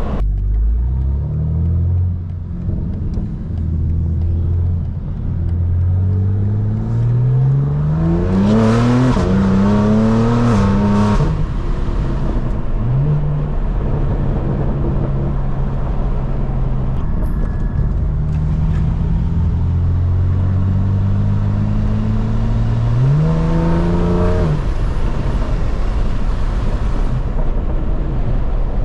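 Straight-piped BMW M4 Competition twin-turbo inline-six pulling hard through the gears. The pitch climbs and drops at each upshift about 7 to 11 seconds in, then settles into a steady cruise before another short pull near the end.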